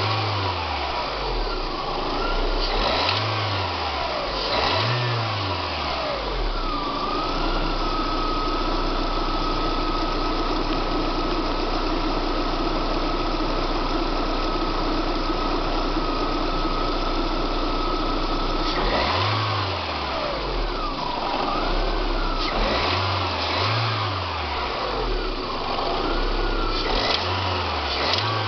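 Car engine revved in short blips, held steady at a raised speed for about twelve seconds in the middle, then blipped again several times. The engine is being run to show knocking noises whose cause is unknown.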